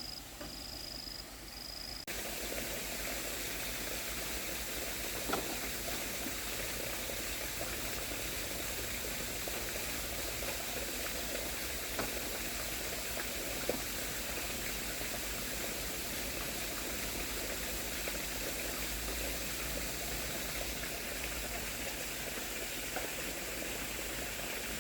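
Steady rushing noise like flowing water, with a few faint clicks. In the first two seconds, before a sudden change, a high pulsing chirp repeats about twice a second, like an insect.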